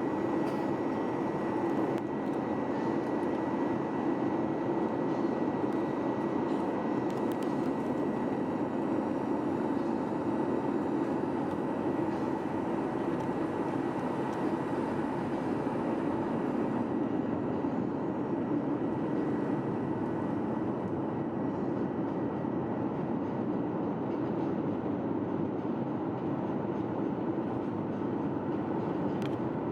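Steady cabin drone of a Boeing 737-800 airliner in flight: engine and airflow noise inside the cabin, with a faint steady high tone over it.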